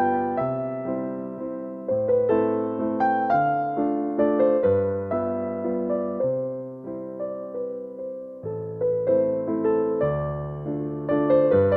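Slow, calm background music played on piano: gentle chords and single notes struck and left to ring, with the bass changing every second or two.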